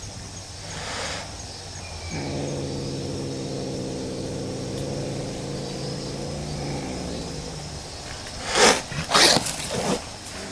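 A cat's low, drawn-out growl held for about five seconds during a face-off between stray cats, then three loud, harsh outbursts near the end.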